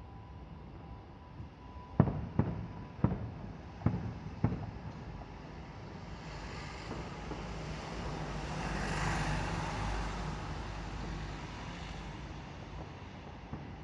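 Fireworks shells bursting: five sharp bangs in quick succession, from about two to four and a half seconds in. Then a broad rush of noise swells, peaks around the middle and fades.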